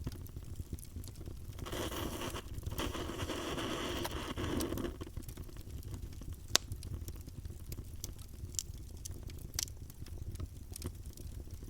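Wood campfire crackling and popping over a low, steady rumble of flames. For about three seconds near the start a rushing hiss swells over the crackle, and one sharp pop about halfway through stands out above the rest.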